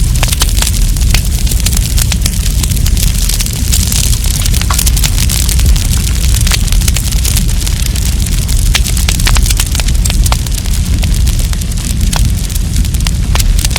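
Wood campfire burning and crackling, with frequent sharp pops and snaps over a steady low rumble.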